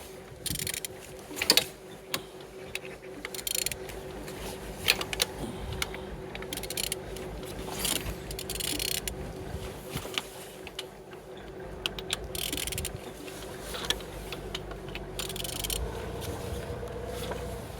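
A DV6DTED (9HP) 1.6 HDi diesel engine being turned over by hand: scattered metallic clicks and scrapes from the tool and the rotating engine, over a faint steady hum. The engine turns freely.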